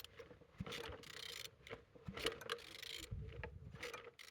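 A removed car engine being turned over by hand: a run of short rubbing and scraping strokes with brief gaps, and a low rumble a little after three seconds. The engine turns freely rather than being seized.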